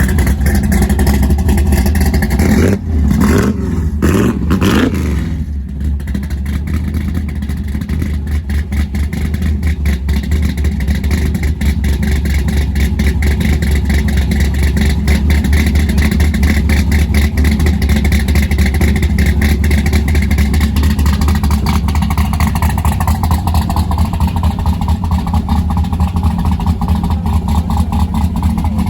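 Car engine running with a deep rumbling exhaust, its pitch rising and falling a couple of times a few seconds in, then settling to a steady run.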